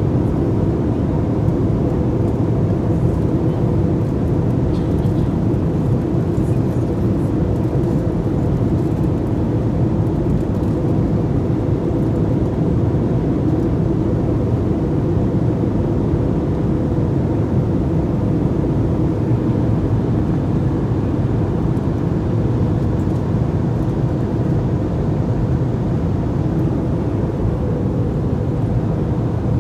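Airliner cabin noise: the steady rumble and hiss of the engines and airflow, with faint steady tones running through it.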